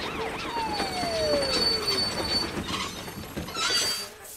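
Cartoon sound effects of a train locomotive running on rails, with faint rhythmic clacking and a high, steady squeal in the middle. A fast-wailing siren dies away at the start and a single tone slides down in pitch over about a second and a half; a brief rush of noise comes near the end.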